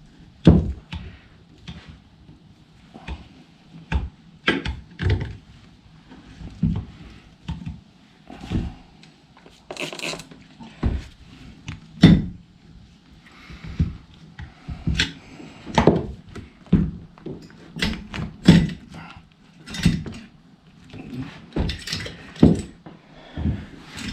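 Irregular knocks, clicks and taps of a screwdriver being worked under a rubber handlebar grip and against the metal handlebar to pry the grip free.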